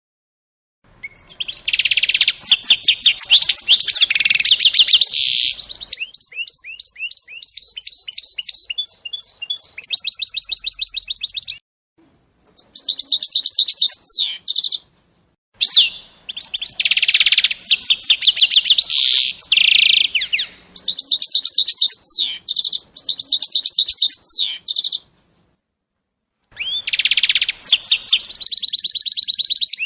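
A small songbird singing in long, loud phrases of rapid high trills and chirps, broken by a few short pauses.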